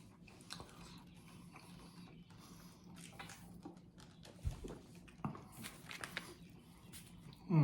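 A person chewing a bite of crispy fried chicken sandwich close to the microphone: faint wet chewing and crackling mouth sounds. A short low thump comes about four and a half seconds in, and a brief falling hum of the voice near the end.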